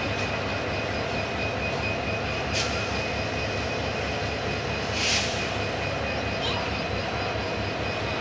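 Container freight train rolling slowly past: a steady rumble of wagon wheels on the rails with a steady high ring over it, and two short hisses, about two and a half and five seconds in.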